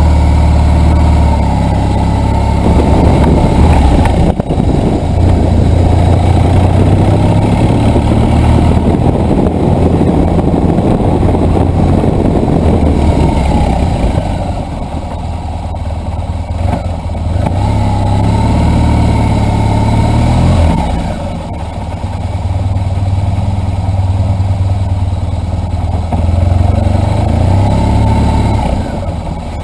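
BMW R1200 GSA boxer-twin engine running under way, its note rising and falling several times as the bike speeds up and slows.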